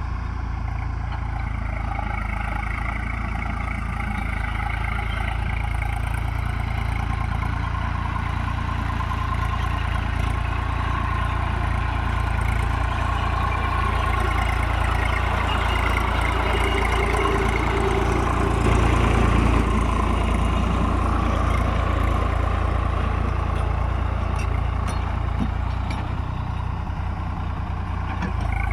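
Tractor engine running steadily, briefly growing a little louder about two-thirds of the way through.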